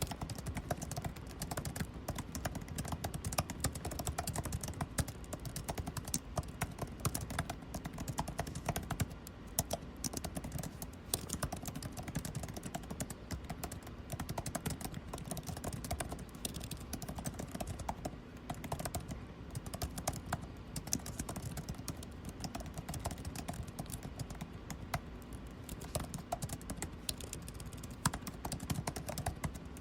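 Continuous typing on a computer keyboard: rapid, irregular key clicks, over the steady low hum of air conditioning.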